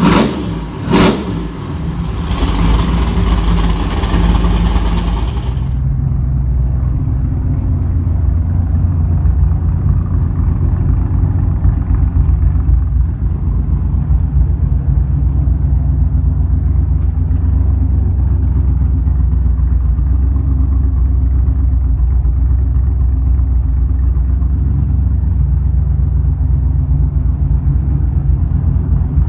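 Supercharged 383 stroker small-block Chevy V8 running through short header mufflers. A sharp throttle blip comes about a second in, then the engine runs up until about six seconds in. From there only a steady, low idle rumble is left, dull and muffled because the phone microphone's high end drops out.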